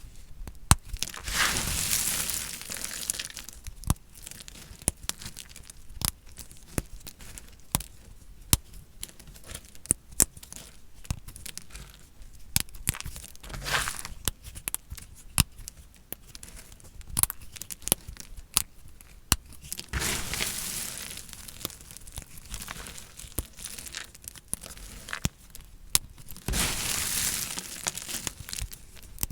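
Dry painted soap being cut with a knife: a few long, crisp crunching and scraping strokes as the blade goes through, among many sharp crackles and ticks of the soap breaking.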